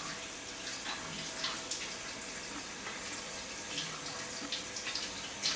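Hot water running from a tap, rinsing the espresso machine's milk-steamer nozzle, with a few light knocks as the part is handled.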